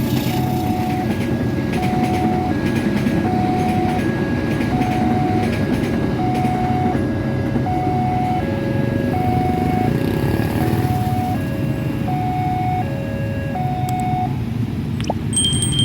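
Railway level crossing warning alarm ringing a repeating two-tone electronic ding, a short tone about every three-quarters of a second, over a steady low rumble. The alarm stops shortly before the end, followed by a brief high chime.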